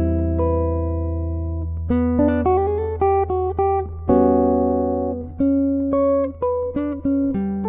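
D'Angelico NYS-1 archtop guitar with flatwound strings, heard through its pickup, playing solo jazz chord-melody. A chord over a low bass note rings for about two seconds, then short chords and single melody notes follow in quick succession.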